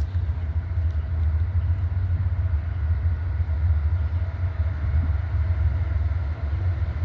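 CSX freight grain train rolling by with a steady low rumble.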